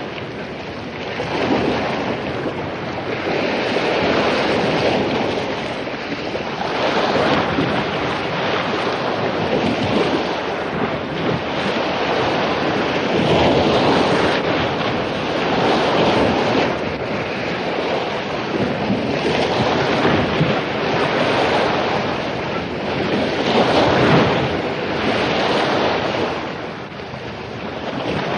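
Ocean waves crashing on a beach after a storm, a continuous surf wash that swells and eases every few seconds, with wind noise on the microphone.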